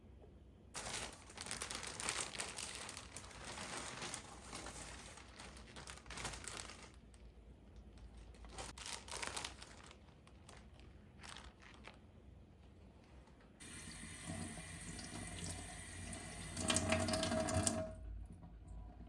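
Kitchen tap running into the sink in several spells, water splashing; the last spell, near the end, is the loudest and carries a steady ringing tone.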